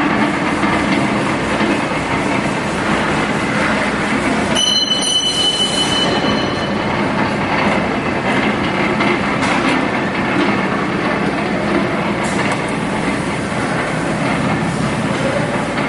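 J H Day 5 cubic-foot stainless vertical nauta mixer running under its 1.5 hp drive, a steady mechanical rumble and rattle. A brief high squeal comes about four and a half seconds in.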